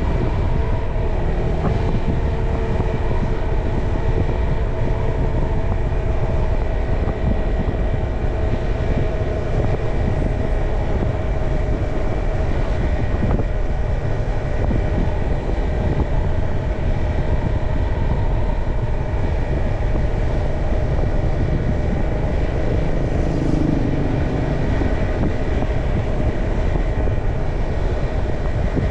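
Motorcycle riding along at a steady pace: engine running with a heavy, steady low rumble of road and air noise.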